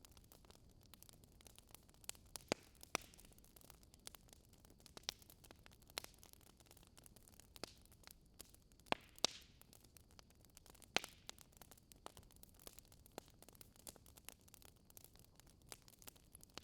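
Wood fire crackling softly, with scattered irregular pops and a few louder snaps, and a brief hiss about halfway through.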